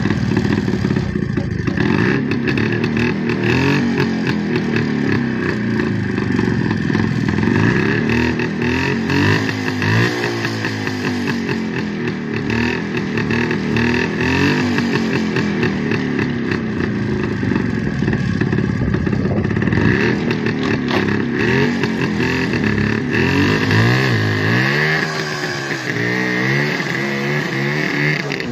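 Jawa 350 two-stroke twin-cylinder motorcycle engine running, with the throttle blipped again and again so the pitch keeps rising and falling. Near the end it revs up as the bike pulls away.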